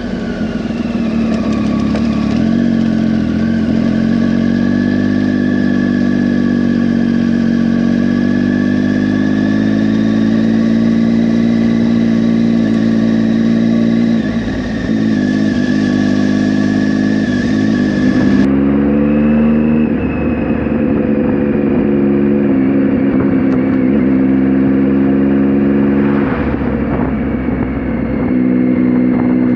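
Motorcycle engine running steadily on the move, its pitch drifting with the throttle and dipping briefly a few times as the throttle eases or a gear changes.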